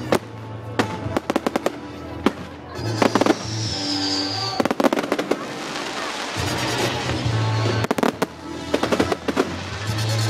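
Fireworks display: clusters of sharp bangs and crackling, with a firework whistling high and falling slightly about three seconds in. Loud music with a heavy bass plays underneath.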